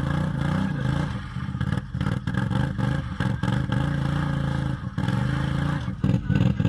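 A motor engine running, its pitch rising and falling.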